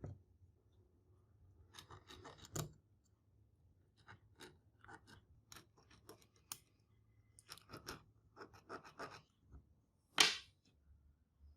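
Intermittent light scrapes and clicks of hand tools worked against a workpiece, in small clusters, with one louder scrape about ten seconds in.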